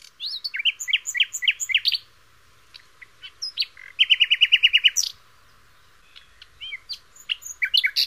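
Songbirds singing: clusters of quick high chirps and slurred whistles, with a rapid run of about ten even notes a little past halfway.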